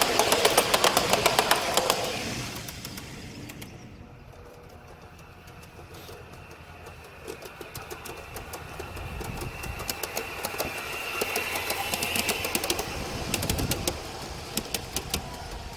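Model trains running on an outdoor garden railway, their wheels clicking rapidly over the rail joints with a thin high whine. The first train fades away within about three seconds, and another approaches and grows louder through the second half.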